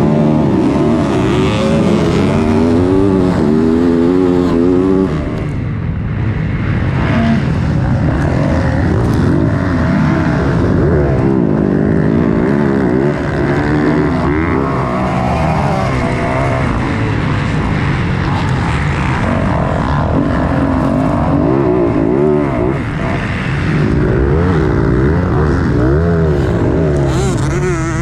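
Motocross dirt bike engine revving hard, its pitch climbing and dropping again and again as it is ridden round the track. The engine backs off briefly about five seconds in.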